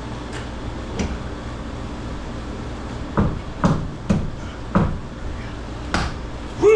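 A hammer striking about eight times at an irregular pace, with a quick run of blows in the middle. Under the blows is a steady low hum. Near the end comes a short, loud pitched sound.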